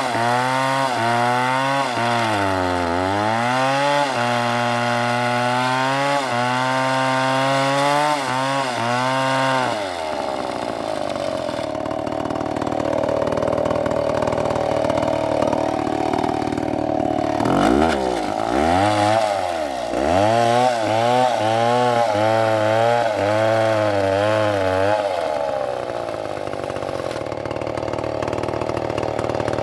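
STIHL two-stroke chainsaw cutting through a log. Its engine pitch repeatedly sags and recovers as the chain bites, then runs higher and steadier from about a third of the way in, sags again through the middle, and runs steady again near the end.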